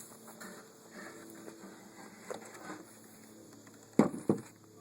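Two sharp knocks about four seconds in, a third of a second apart, from the beehive bottom board and its insert being handled, with faint rustling before them.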